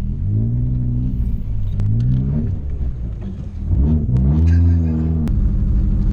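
1996 Toyota Celica's four-cylinder engine revving up and falling back three times, as when rocking or reversing through a deep puddle. About five seconds in, the sound switches abruptly to a steady, fast-pulsing low rumble.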